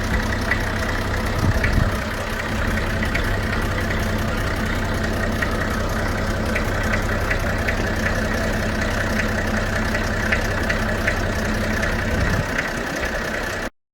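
Fordson E27N tractor's Perkins P6 six-cylinder diesel engine running steadily. The sound cuts off suddenly near the end.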